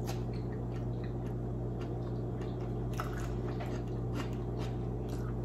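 Close-miked chewing of oven-baked squid, many short clicks from the mouth scattered throughout, over a steady low hum.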